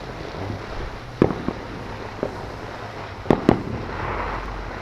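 Fireworks and firecrackers going off: about five sharp bangs at irregular intervals, the loudest a pair close together about three seconds in.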